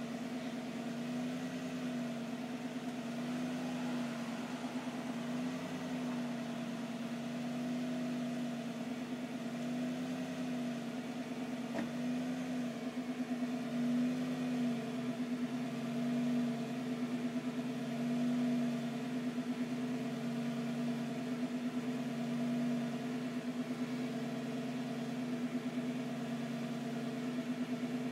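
Lamborghini Gallardo's V10 engine idling steadily in an underground car park, its hum swelling and easing slightly every couple of seconds.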